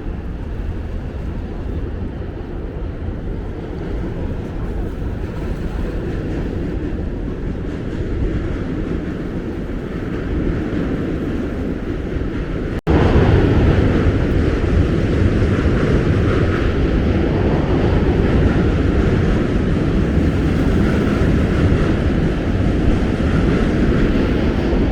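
Steady low vehicle rumble with no voices. It cuts off sharply about 13 seconds in and comes straight back louder.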